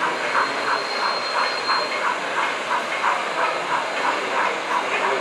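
Model train running on an exhibition layout, with a steady rhythmic beat of about four a second over a hiss.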